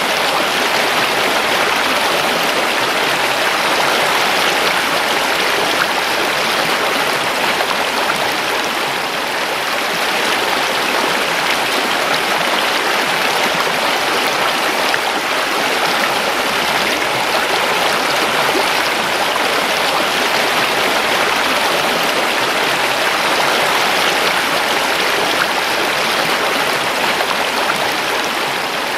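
A river or stream flowing over rocks: a steady, even rush of water.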